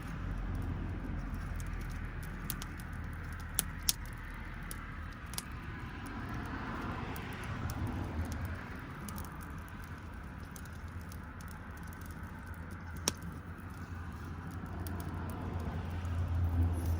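Wood campfire burning, with scattered sharp pops and crackles over a steady low rumble.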